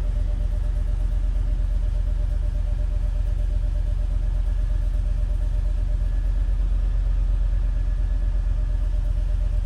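Toyota Land Cruiser engine idling steadily, still warming up after a cold start.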